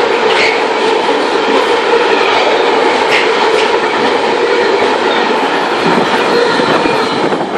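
Train passing close by: loud, steady rail and running noise with a steady humming tone, easing off at the very end.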